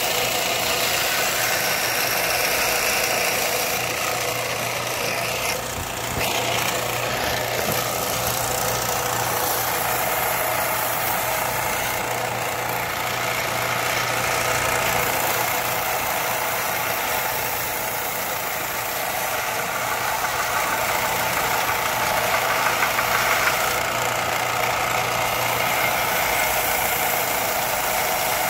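Electric power tool running steadily: a constant motor hum under a continuous abrasive hiss, with small rises and falls in level as the work is pressed to it.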